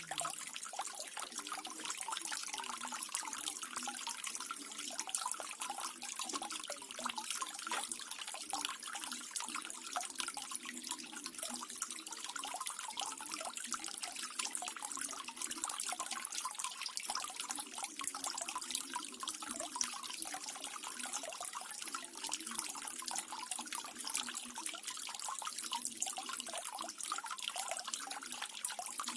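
Small garden waterfall: water trickling and splashing steadily, with a low bubbling burble underneath.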